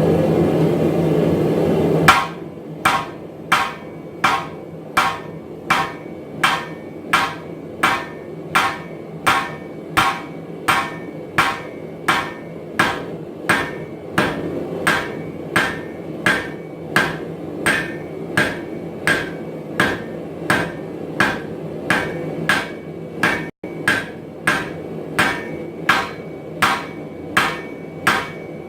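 Hand hammer striking metal on an anvil in a steady rhythm, about one and a half blows a second, each blow with a short metallic ring. A steady rushing noise plays for the first two seconds and cuts off suddenly before the hammering.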